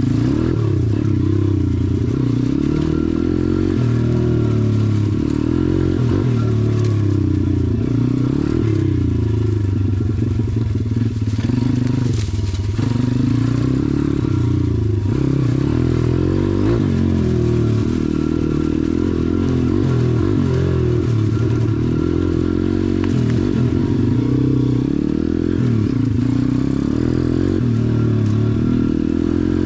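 SSR dirt bike engine running under a constantly changing throttle while riding trails, its pitch rising and falling every second or two.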